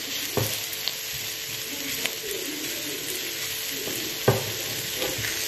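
Button mushrooms and spring onion sizzling in garlic butter in an enamelled pan, stirred with a wooden spoon that knocks and scrapes against the pan a few times, most sharply about four seconds in.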